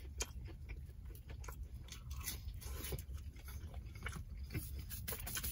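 Close-miked chewing of a sauce-dipped McDonald's chicken McNugget: a bite, then many small, irregular crunches and wet mouth clicks.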